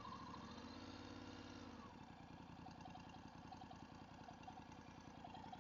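Near silence: a faint, steady low hum, with a faint wavering tone in the first two seconds.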